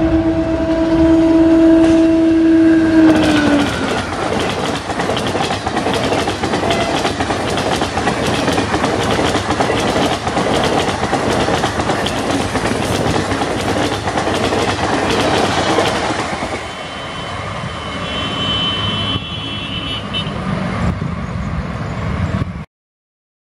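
Electric locomotive's two-tone horn sounding loudly for about three and a half seconds, then a passenger train passing at speed: wheels clattering over the rail joints and the coaches rushing by, easing off after about sixteen seconds. A brief high-pitched tone sounds near the end before the sound cuts off suddenly.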